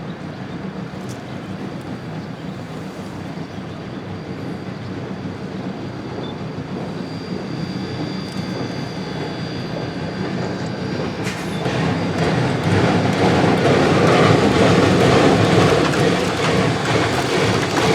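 A geared steam logging locomotive and its train running past on the rails, growing steadily louder as it comes close, loudest from about two thirds of the way in. A faint high squeal sounds around the middle.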